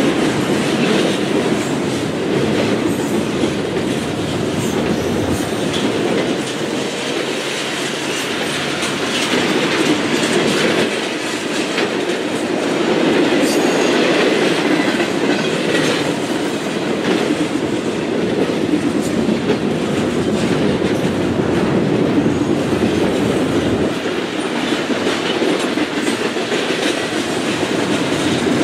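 Double-stack intermodal container train rolling past: a steady rumble of steel wheels on rail, with repeated clicks as the wheels cross rail joints.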